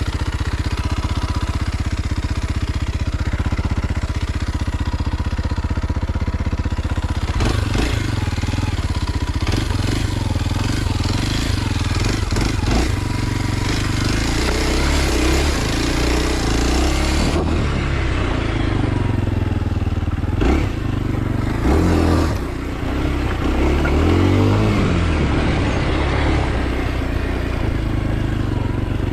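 Kawasaki KLX 230 SM's single-cylinder engine idling steadily for the first several seconds, then running at changing revs, the pitch rising and falling repeatedly.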